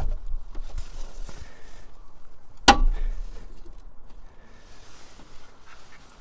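Hands working on parts, with rustling and light knocks and one sharp knock just under three seconds in.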